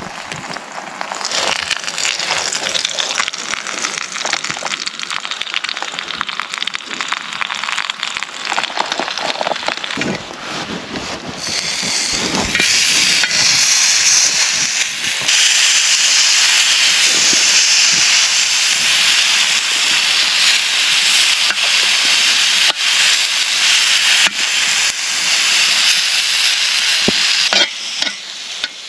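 Steady hissing and sizzling from a camping stove at work, growing louder about twelve seconds in and again a few seconds later.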